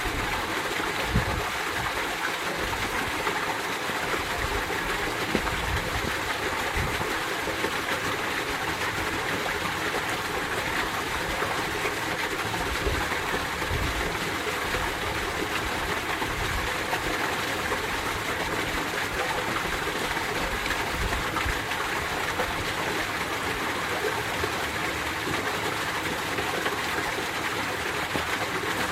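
Mountain valley stream flowing steadily, a continuous even water sound.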